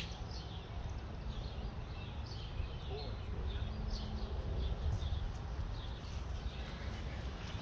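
Small birds chirping over and over, short high calls scattered throughout, over a steady low rumble.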